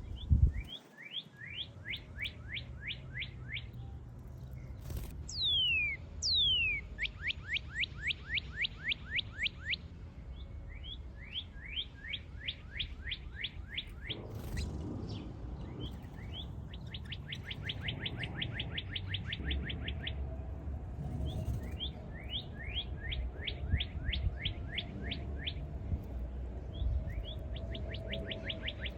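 Small birds calling in repeated quick runs of short down-slurred chirps, several a second, with two longer falling whistles about five to six seconds in. A sharp knock sounds right at the start, and a low rumble runs underneath.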